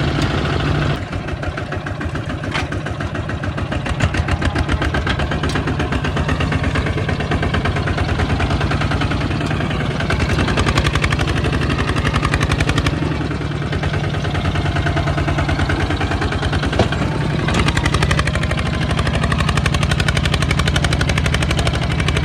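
Kubota tractor's diesel engine running steadily with a fast, even firing beat.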